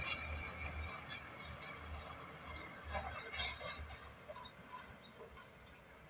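A bird repeats a short, high chirp a little under twice a second. Under it, a loaded dump truck's engine fades away as the truck drives off.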